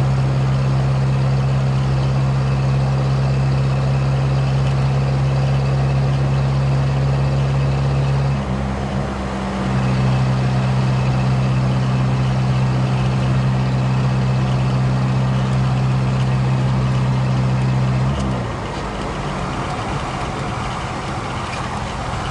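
VAZ 2107's inline-four engine droning steadily while the car drives at road speed, with a brief break in the drone about eight seconds in. Near the end the engine note falls away, leaving steady road and tyre noise.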